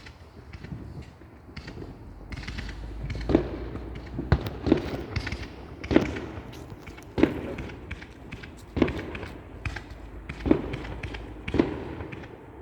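Fireworks going off some way off: about eight sharp bangs, roughly one a second, starting about three seconds in.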